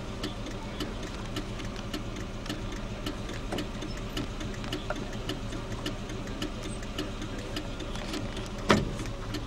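Car engine running at a crawl, heard from inside the cabin, with an even ticking of about two or three a second. One loud knock near the end.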